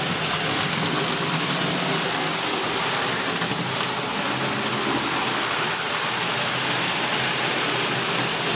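Analog model train running on its track: a steady rushing of metal wheels over the rails with a low electric motor hum underneath.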